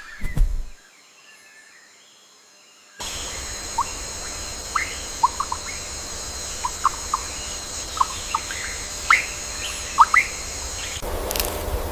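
Wild birds calling: about a dozen short, rising chirps scattered over a steady high-pitched drone. It starts about three seconds in, after a few knocks and a quiet gap.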